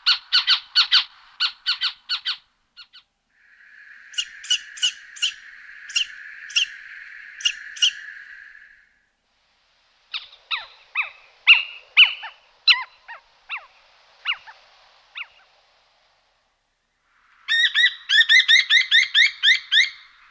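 Bird calls in separate bouts broken by sudden silent gaps: fast runs of sharp repeated chirps, about five a second, at the start and near the end, and a run of quick falling notes in the middle.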